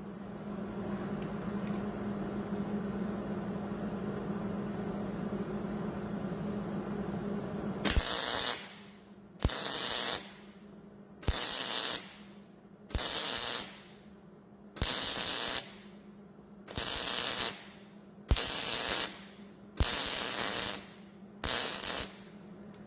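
MIG welder stitch welding steel: nine short bursts of arc crackle, each about a second long with a brief pause between them, starting about eight seconds in after a stretch of steadier, quieter noise.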